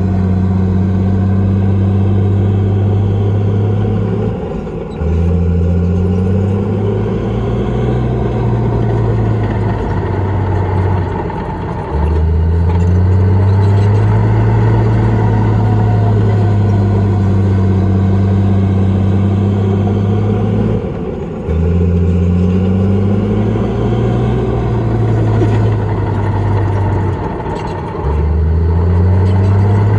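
Komatsu bulldozer's diesel engine working under heavy load. Its pitch drops and the sound dips four times, each time climbing back up again, as the load changes between pushes.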